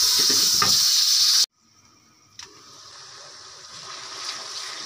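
Onion-tomato masala frying in ghee with a little water, sizzling loudly with a light knock under a second in, then cut off suddenly about a second and a half in. After a click, a fainter sizzle comes back and grows as the masala is stirred.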